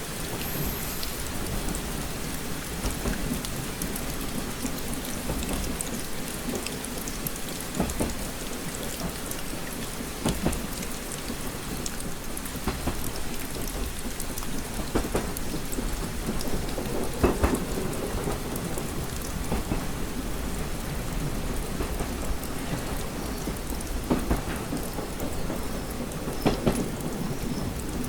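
Steady rain tapping on window glass, with scattered sharper drop taps over a continuous low rumble.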